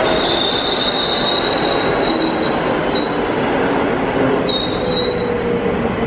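Newag Impuls 2 electric multiple unit pulling in and braking, with a steady rolling rumble and high-pitched squealing as it slows. A lower whine falls slowly in pitch as the train loses speed.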